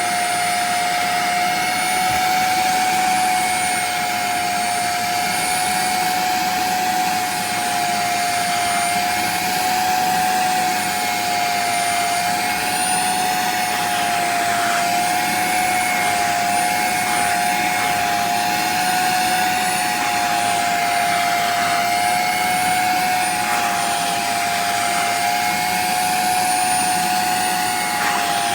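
Portable upholstery wet-vacuum motor running with a steady high whine over a rush of air, its pitch wavering slightly now and then.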